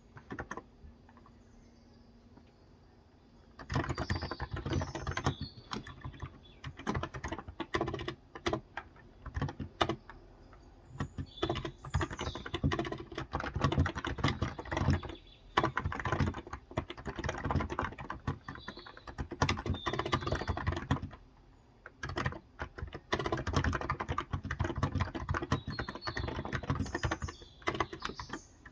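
Typing on a Cox Endeavour electro-capacitive tenkeyless keyboard with light 35 g keys, in quick runs of keystrokes broken by short pauses. Faint bird chirps come in now and then behind the typing.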